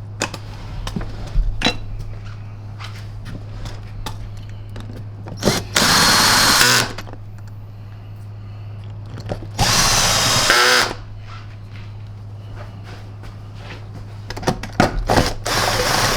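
Cordless power screwdriver driving screws into the vacuum's plastic housing: two runs of about a second each, roughly six and ten seconds in, then a few short bursts near the end. Small handling clicks come between the runs, over a steady low hum.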